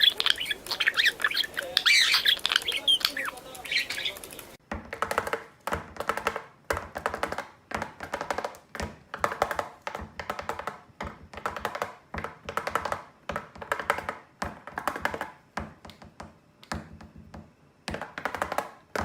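A parrot squawking and chirping in shrill high calls. About four and a half seconds in, after a cut, a long run of short pitched sounds follows in a steady rhythm.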